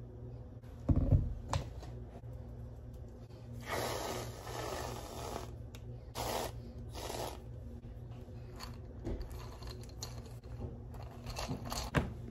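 Aerosol whipped cream can spraying onto a glass of iced coffee: one long hiss of about two seconds, then two short bursts. A knock about a second in and sharp knocks near the end.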